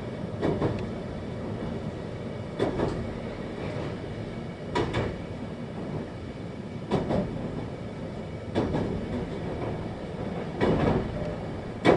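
521-series electric train heard from inside the car while running, with steady rolling noise and wheels knocking over rail joints in quick pairs about every two seconds.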